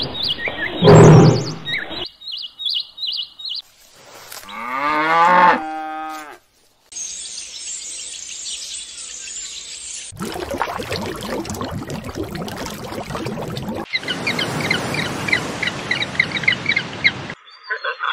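A string of different animal sounds cut one after another: a loud call in the first second or two, a cow mooing once with a falling pitch about four seconds in, then birds chirping over a steady hiss for most of the rest.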